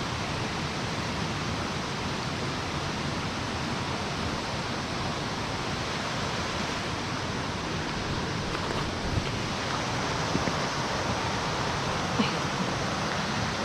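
Steady hiss of rushing water, even and unbroken.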